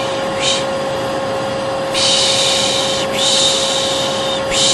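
Vacuum cleaner running steadily with a constant motor whine, overlaid with a person's soothing 'shh' shushing of the kind used to calm a baby. There is a short shush about half a second in, two long ones from about two seconds in, and another starting at the very end.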